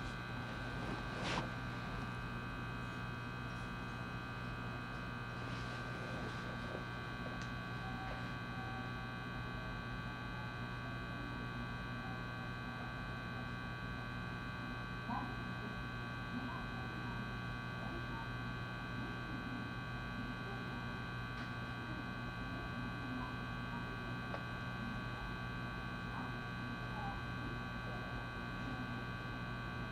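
Inside a JR West 223-series electric train standing still: a steady electrical hum from the car's onboard equipment, with several steady high whining tones over it and a few faint small clicks.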